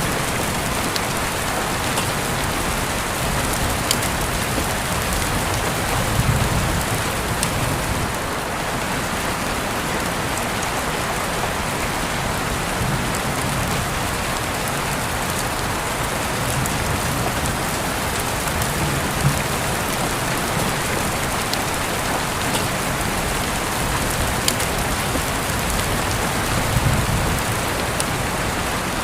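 Steady rainfall, an even hiss with scattered sharper drop ticks. A low rumble swells briefly twice, about six seconds in and near the end.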